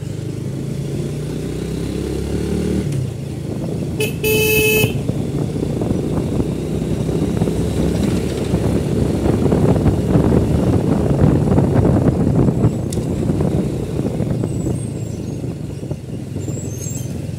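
Motor vehicle engine and road noise running steadily, with a horn honking once for under a second about four seconds in.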